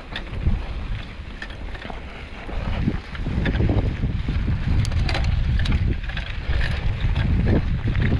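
Wind rumbling on the microphone of a camera carried on a moving bicycle, growing louder about three seconds in, with scattered light clicks and rattles.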